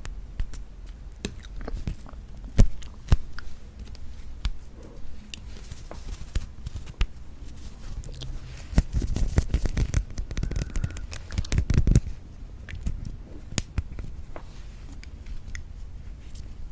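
Close-miked jelly-eating ASMR sounds: scattered sharp clicks and mouth noises, with a denser, louder stretch of crackly chewing and handling noise in the middle.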